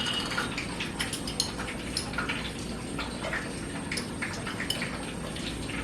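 Small scattered clicks and taps of a spoon putting garlic into a pan on the stove, over a steady low hiss.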